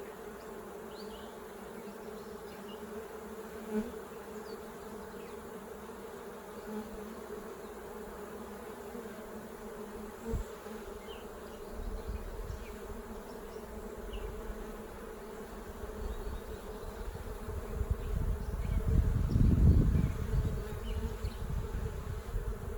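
A colony of honeybees buzzing steadily around an open hive during an inspection. In the second half a low rumble builds up, loudest a few seconds before the end.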